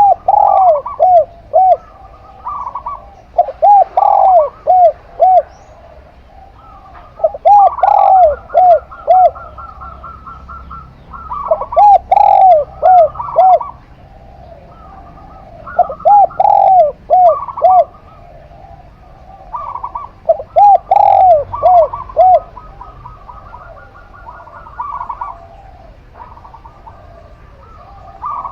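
Doves cooing: short phrases of several quick, arching coos, repeated about every four seconds.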